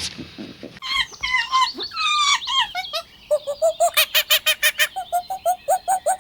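Bird calls: high, squeaky chirps sliding up and down, then from about halfway a fast, even run of short honking calls, about four or five a second.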